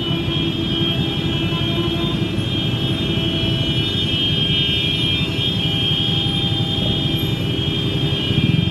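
Steady traffic noise from a busy road, with vehicle engines running.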